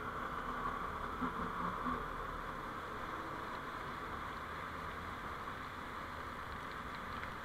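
Steady vehicle driving noise, road and engine hum picked up by a dashcam, with no sudden events.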